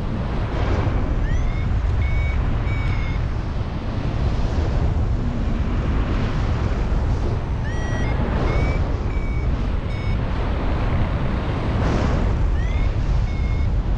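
A paragliding variometer beeping in short clusters of rising tones, the climb signal that the glider is going up in lift. Heavy wind noise on the microphone from the airflow of flight runs underneath and is the loudest sound throughout.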